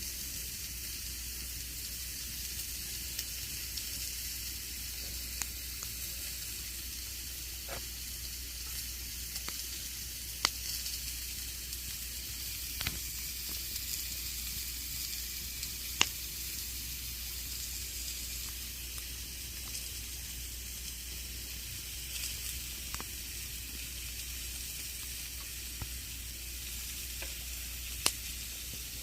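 Campfire burning with a steady hiss and scattered sharp crackles and pops, the loudest about a third of the way in, just past halfway and near the end.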